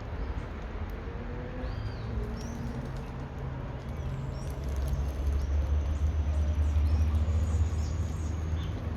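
Outdoor ambience: scattered short bird chirps over a low rumble that grows louder about halfway through.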